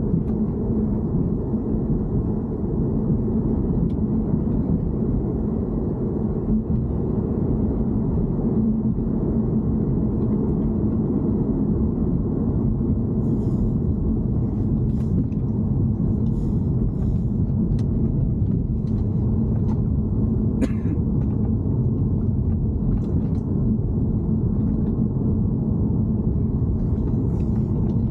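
BMW E90 3 Series car running: a steady low rumble with a constant hum, and a few faint light ticks in the second half.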